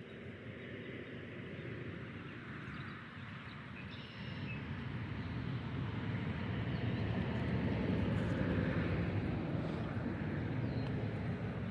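Distant engine noise of a passing vehicle or aircraft, a steady rumble that swells gradually to a peak about eight seconds in and then eases off a little.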